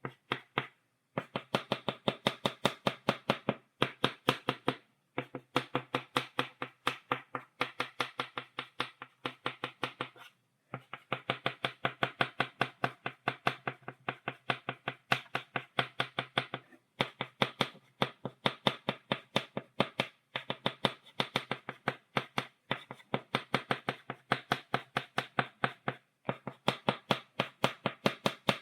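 A stick of chalk tapping dots onto a blackboard, quick even taps about five a second, in runs broken by brief pauses.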